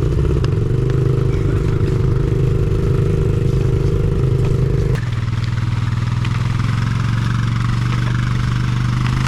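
Honda CRF70 pit bike's small four-stroke single-cylinder engine running steadily. About halfway through, the note drops abruptly to a lower, steadier tone.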